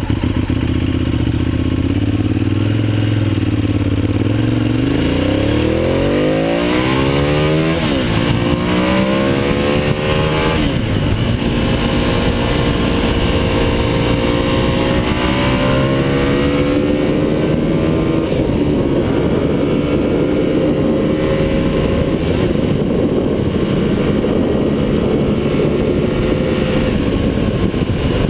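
Ducati 848 Evo's L-twin engine accelerating hard. The revs climb, drop sharply at gear changes about eight, ten and a half and sixteen seconds in, then hold steady and high as the bike runs at speed.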